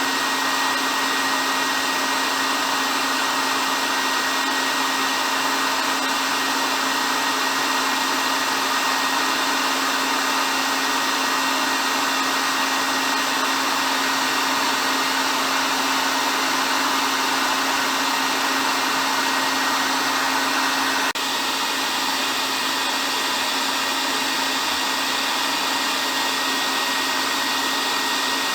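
Hair dryer running steadily: an even rush of blown air with a steady motor hum and a faint high whine. About 21 seconds in the level steps down slightly and then holds steady again.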